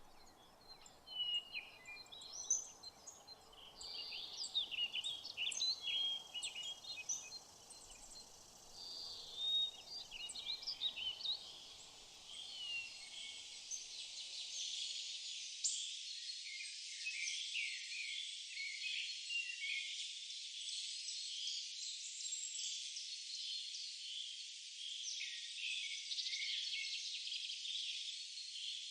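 Outdoor ambience of birds chirping and tweeting over a faint low background hiss. About halfway through, the low hiss drops out and a denser, steady chorus of high chirps carries on.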